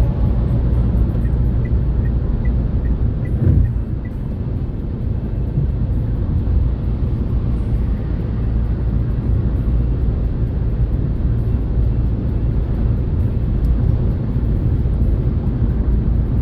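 Renault Kardian driving on the road: a steady, low rumble of road and engine noise. Early on, a quick run of faint short beeps sounds, and a single thump comes at about three and a half seconds.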